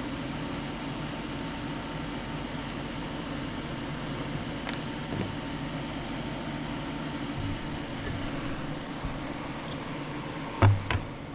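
Steady mechanical hum, like a running fan, with a few faint clicks and one loud thump near the end.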